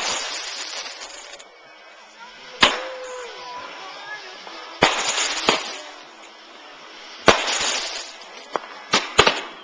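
Fireworks bursting, a series of sharp bangs each followed by about a second of crackling. They come a couple of seconds apart at first, then several in quick succession near the end.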